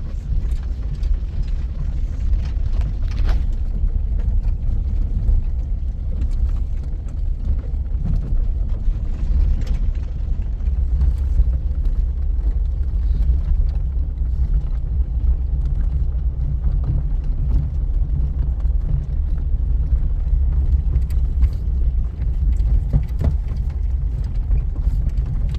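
A motor vehicle being driven, with a steady low rumble from its engine and tyres.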